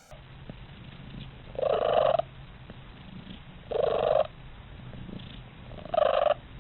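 Domestic cat purring steadily, with three short, louder cat calls about two seconds apart over the purr.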